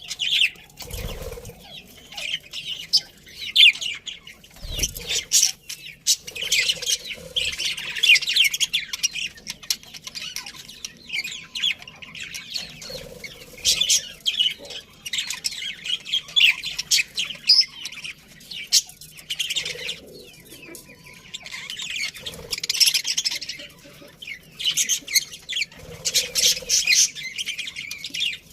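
A colony of budgerigars chattering and chirping in quick, warbling bursts, many birds at once. Two brief low thumps, about a second in and near five seconds.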